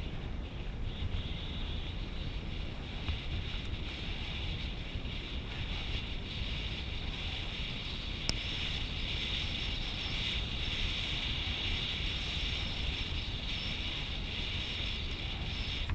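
Steady wind rumble on a GoPro's microphone with a constant hiss over it, and one sharp tick about halfway through.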